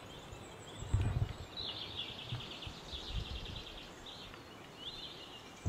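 A songbird singing a fast run of repeated high notes, then two shorter phrases, over quiet woodland background. A low thump about a second in is the loudest sound.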